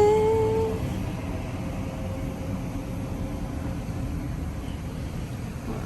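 Steady low rumble of a car moving, heard from inside the cabin. It opens with a short steady tone lasting under a second.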